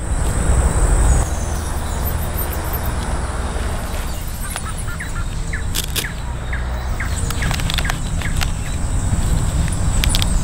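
Birds chirping in short calls over a steady low rumble of outdoor ambience, with a few sharp clicks around the middle.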